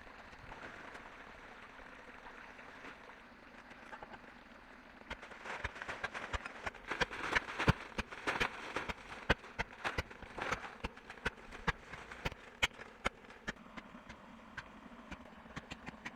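A steady hiss, then about five seconds in a quick, irregular run of sharp knocks and clicks that lasts some eight seconds before thinning out again.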